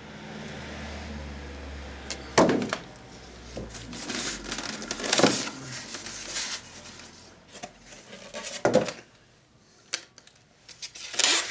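Cardboard box being opened and a unit lifted out: rustling and scraping of cardboard and packing, with four sharp knocks as the box and its contents are handled.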